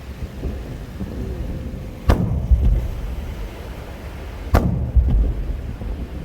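Aerial fireworks shells bursting, two sharp bangs about two and a half seconds apart, each followed by a low rumbling echo.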